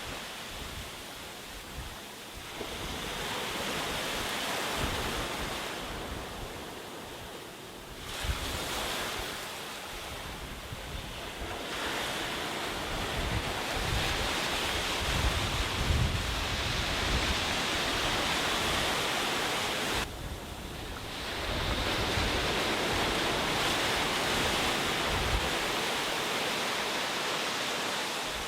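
Sea waves breaking and washing up the beach, the surf swelling and falling away every few seconds.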